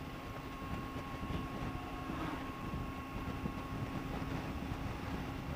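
Triumph Tiger 800 XRT's three-cylinder engine running at a steady cruise under a rumble of wind, heard from inside the helmet with the visor closed.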